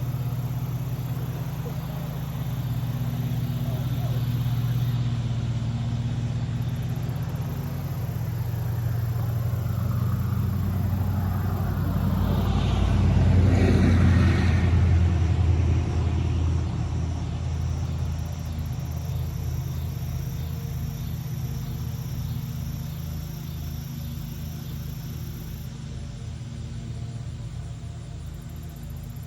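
A road vehicle passing by: its noise swells to a peak about halfway through and then fades, over a steady low rumble.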